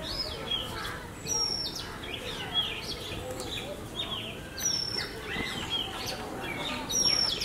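Several small birds chirping and calling, with one high whistled note coming back every few seconds among quicker falling chirps.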